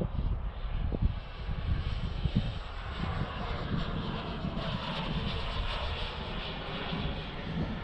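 Turbine-powered RC model jet (an Avanti) flying past, its small gas turbine giving a steady rushing jet sound that swells as the plane comes near, from about three seconds in, then eases off again.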